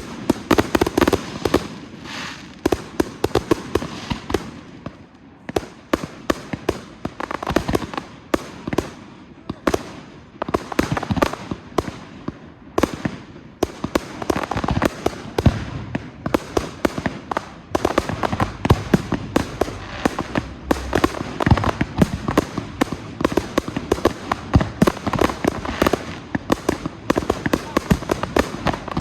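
Professional display fireworks going off in rapid succession: many sharp bangs and cracks, several a second, over a steady hissing crackle.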